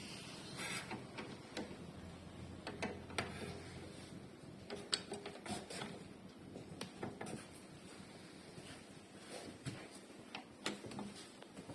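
Hand work on a car's sunroof mechanism: scattered light clicks, taps and small rattles of parts and hand tools being handled, irregular and of varying strength, over a faint low hum.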